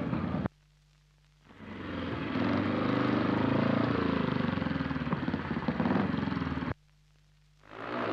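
Speedway motorcycle engines running, a dense mechanical noise. The sound cuts out twice, about half a second in and near the end, for under a second each time, and fades back in.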